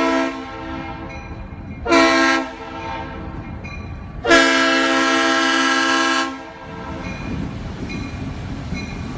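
Train horn sounding in blasts: one cutting off just at the start, a short blast about two seconds in, and a long blast of about two seconds beginning a little past four seconds, over a steady low rumble.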